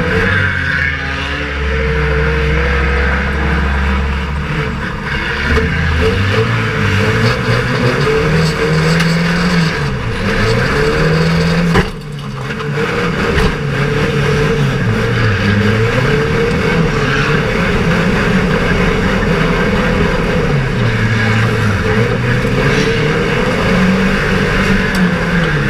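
Banger racing car's engine heard from inside the stripped cabin, revving up and falling back again and again as the driver accelerates and lifts around the track. The sound drops away sharply for a moment about twelve seconds in, then picks up again.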